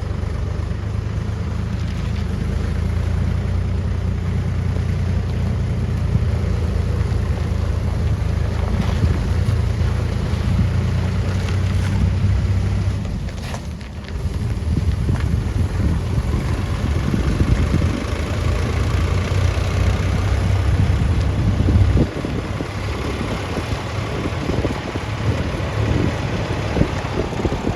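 Heavy diesel engine running steadily with a deep rumble, dipping briefly about halfway through, then running on with an uneven pulsing beat.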